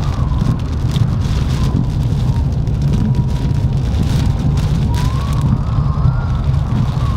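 Heavy hurricane rain lashing a moving car, with a loud, steady low rumble of wind and road noise. A faint wavering whistle comes and goes, strongest in the second half.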